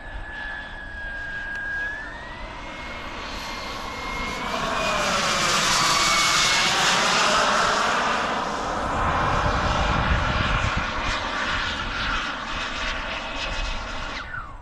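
Small RC jet turbine engine whining at a high pitch, stepping up in pitch, then a loud rushing pass-by as the model jet flies close, with the pitch sweeping down. Near the end the turbine's whine drops sharply, which fits the engine flaming out mid-flight.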